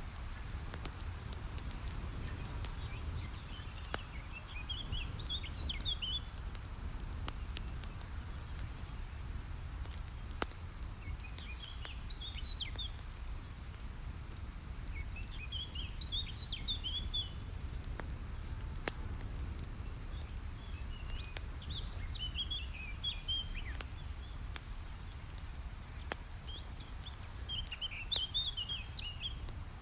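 Wood campfire crackling, with scattered sharp pops over a steady low rumble. A songbird sings a short chirping phrase five times, about every five or six seconds.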